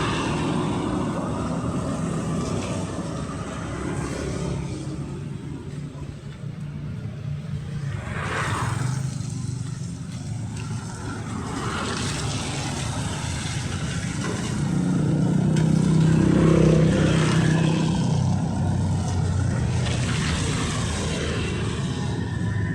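Street traffic: motor vehicle engines running past, with one passing close and loudest about sixteen seconds in.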